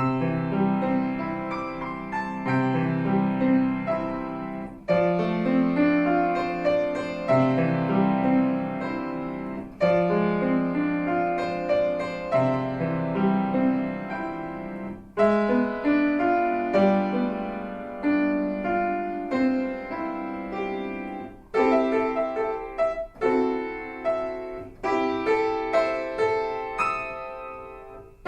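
Solo piano played by a young child: a melody over moving bass notes, in phrases that each open with a loud attack and fade, the notes coming quicker and more detached in the last few seconds.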